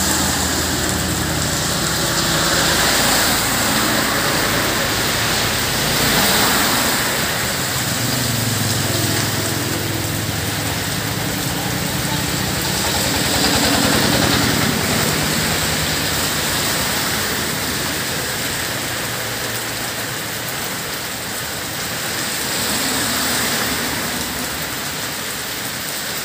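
Heavy rain pouring steadily onto a road and pavement. A motorbike's engine fades in the first couple of seconds, and another motor vehicle's engine passes on the wet road about halfway through.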